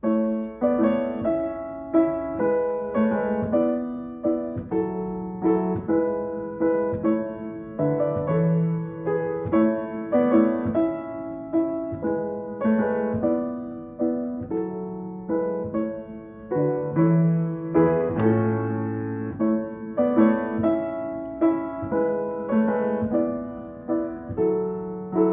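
Feurich piano being played: a slow run of chords, each struck and left to ring and fade, with deeper bass notes now and then, the lowest about two thirds of the way through.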